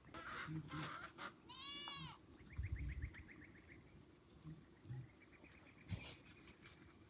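A goat bleating once, a short cry that rises and falls, about two seconds in. Faint rapid trills and a few soft thumps come before and after it.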